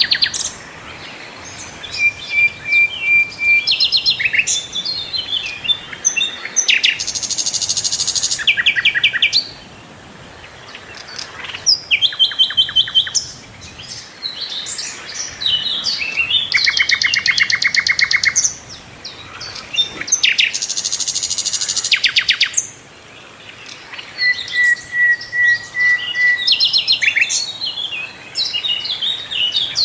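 Sikatan londo flycatcher singing a varied, full song: fast trills, runs of rapid repeated notes and short level whistles, in phrases broken by brief pauses.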